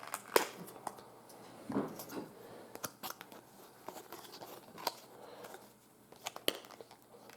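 Handling noise: scattered light clicks, taps and short rustles from hands moving a small plush toy and its card hang tag, with the sharpest click about half a second in.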